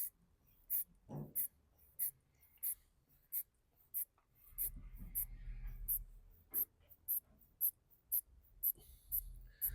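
A string of light, sharp clicks and scratches, roughly two a second, from hands working on parts at the engine's intake, with a low rumble about halfway through.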